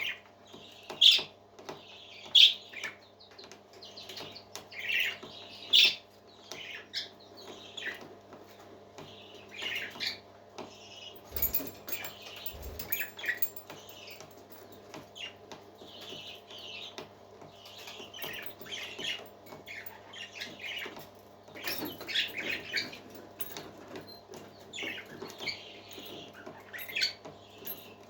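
Parrot chirping and squawking in many short, high-pitched calls, about one every second or so, over a steady low hum.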